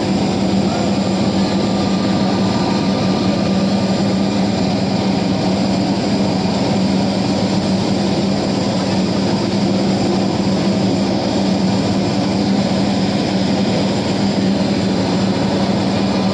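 Airplane engines running steadily: a constant loud drone with a strong low hum that holds the same pitch throughout.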